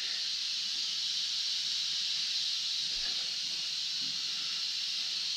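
A steady high-pitched hiss with no distinct events: background noise in the workshop.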